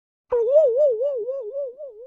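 Cartoon comedy sound effect: a sudden click, then a fairly pure tone that warbles up and down about four times a second and fades away.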